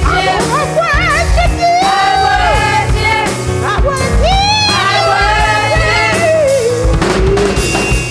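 Live gospel worship music: a lead vocalist sings long, sliding runs with vibrato over a band accompaniment with bass.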